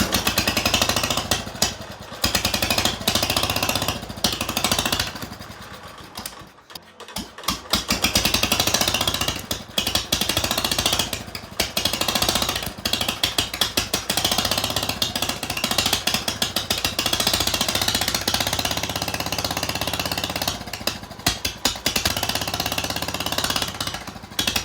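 Small tractor engine running unmuffled, a fast rattle of firing pulses. It drops almost away about six seconds in, then picks back up and keeps running.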